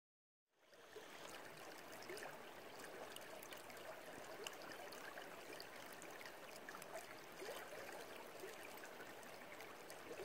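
Faint running, trickling water fading in about half a second in, then holding steady with small splashy ticks.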